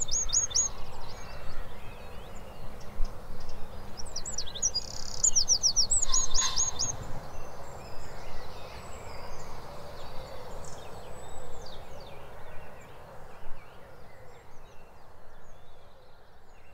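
A small songbird singing short phrases of rapid, high-pitched repeated notes, with a strong phrase about five seconds in and fainter notes after, over a steady outdoor background hiss.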